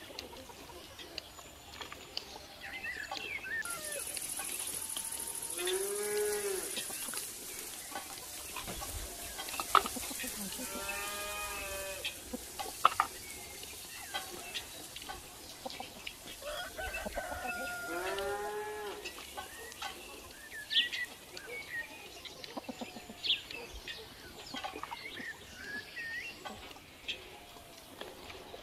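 A cow mooing three times, each a long call that rises and falls in pitch, with small birds chirping between the calls.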